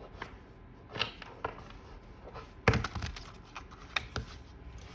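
Scattered sharp taps and clicks of tarot cards being handled on a table, about seven in all, the loudest near the middle.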